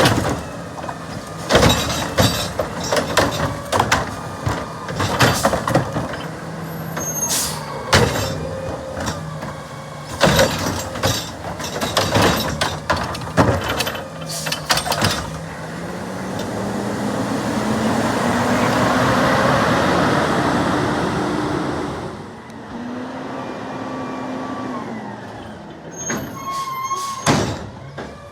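Garbage truck at work: a long string of loud clanks and bangs, then the engine revs up with a rising whine and a swelling hiss for several seconds before dropping back, and a few more clanks near the end.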